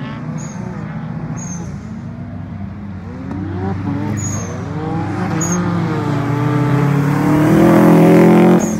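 Subaru Impreza WRX's turbocharged flat-four engine revving up and down as the car is driven hard through tight corners, its pitch rising and falling with throttle and gear changes. It grows louder as the car comes past close by, then cuts off abruptly near the end.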